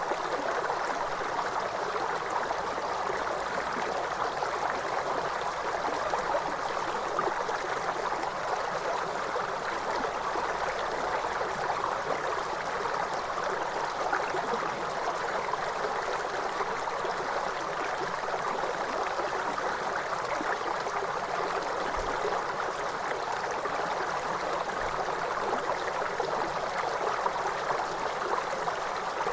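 Waterfall running steadily: an even, unbroken rush of falling water, with little deep rumble.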